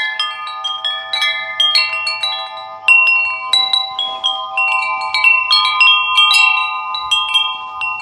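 Large 36-inch wind chime with five black tubes, struck over and over at an uneven pace. Several strikes a second leave long, overlapping ringing tones.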